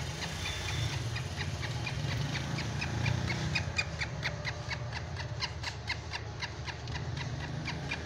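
A bird chirping in a rapid, even series of short high notes, about four or five a second, over a low steady hum.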